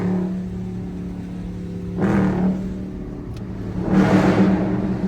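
SRT Jeep's V8 engine and exhaust running under way, surging louder briefly about two seconds in and again from about four seconds in as the throttle is opened.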